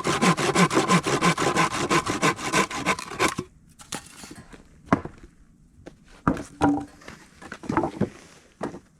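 Hand saw cutting through wood with quick, even back-and-forth strokes that stop about three seconds in, followed by a few scattered wooden knocks as the wood is handled.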